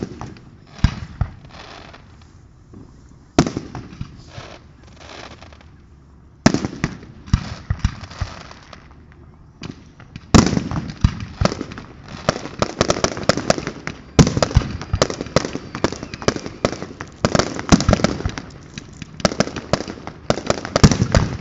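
Fireworks going off: single loud bangs a few seconds apart with crackling after each. From about ten seconds in they give way to a dense barrage of rapid bangs and crackle.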